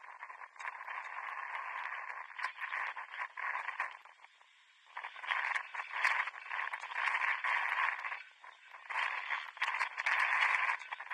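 Thin, muffled pitch-side ambience of a seven-a-side football match, a rough noise that surges and fades in stretches, dropping away for about a second near the middle, with scattered sharp clicks such as ball contacts.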